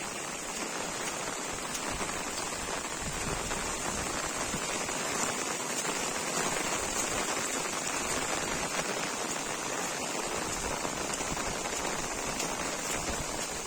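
Heavy rain pouring down: a steady hiss of rain on surfaces with scattered drop ticks.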